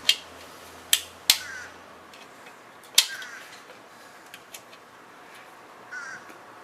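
Sharp metallic clicks and clinks of bolts and hand tools being handled during motorcycle fender bolt-up: four loud separate clicks in the first three seconds, then a few lighter ticks.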